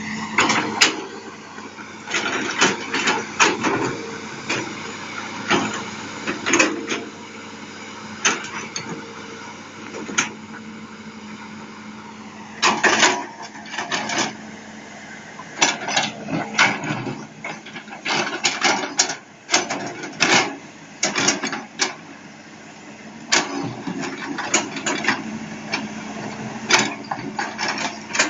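Isuzu 6BG six-cylinder diesel engine of a Hitachi Zaxis200 excavator running steadily, with many irregular sharp knocks and clatter over it.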